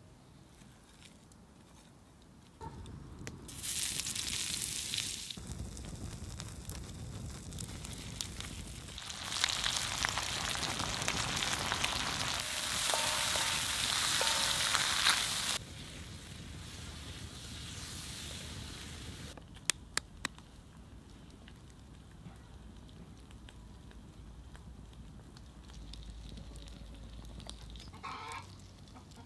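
Sliced mushrooms and ham sizzling on a hot black steel griddle disc, stirred with a wooden spatula. The sizzle starts about three seconds in, is loudest for several seconds in the middle, then dies down to a low fry. Near the end a quail egg's shell cracks.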